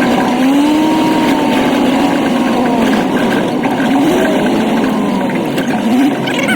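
An old truck's engine running under way, heard from the cab. Its pitch rises and falls twice as the revs climb and drop.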